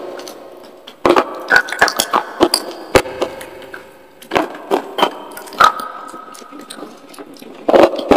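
Close-miked crunching as slate pencil crumbles coated in white paste are bitten and chewed: three bursts of sharp, crackling crunches, about a second in, near the middle, and again near the end, with quieter pauses between.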